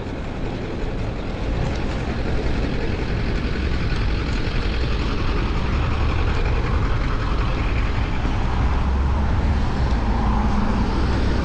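Steady low rumble of city traffic and wind over a chest-mounted action camera while riding a bicycle on the street, growing a little louder over the first few seconds.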